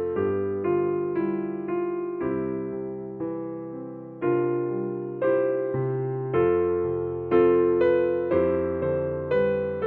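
Slow, gentle piano music: notes and chords struck about once a second, each left to ring and fade.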